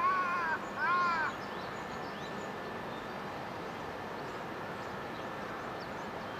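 A crow cawing twice in the first second and a half, each caw a short arched call, over a steady background noise with faint chirps of small birds.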